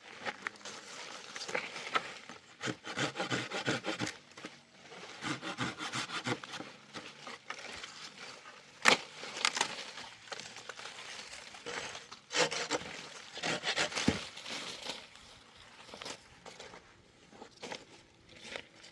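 Hand-sawing of wood in short runs of rasping strokes, with pauses and a few sharp knocks of wood between.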